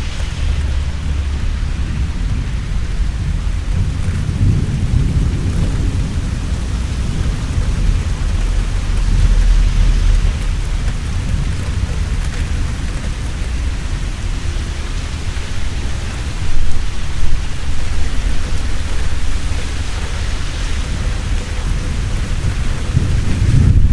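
Heavy rain pouring steadily, with rolling thunder rumbling low underneath. The rumble swells and fades, and two short louder claps come about two-thirds of the way in.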